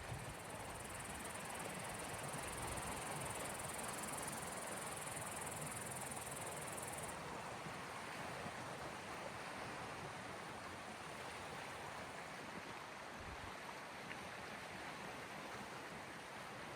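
Sea waves washing steadily at the shore, an even rushing noise without distinct breaks. A thin high hiss rides over it and stops about seven seconds in.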